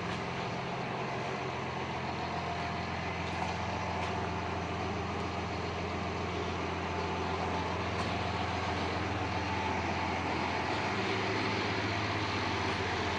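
A machine running steadily, a low hum with an even hiss over it, growing slightly louder toward the end.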